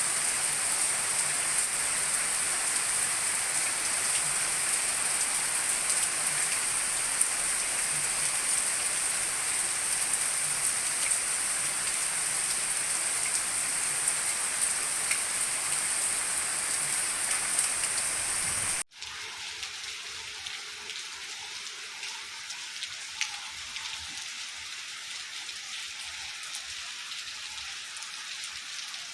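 Heavy rain falling in a steady hiss. About 19 seconds in it cuts off abruptly to a quieter patter of rain with scattered separate drops.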